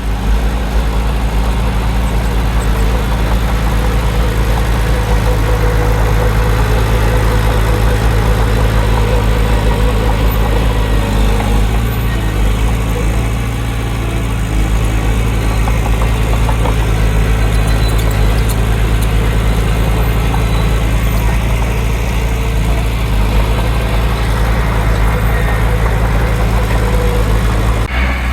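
Heavy diesel engine of earthmoving machinery running steadily close by, with a constant low drone and no clear revving.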